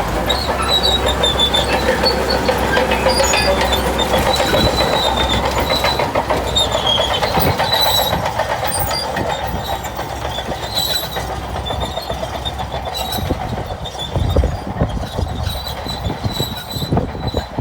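Shantui crawler bulldozer at work, its steel tracks clanking rapidly and squealing on and off over the running engine. A few heavier low thuds come near the end.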